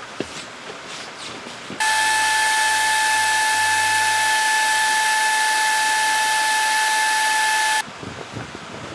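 A loud, steady hiss with a high whistling tone through it, lasting about six seconds and starting and stopping abruptly.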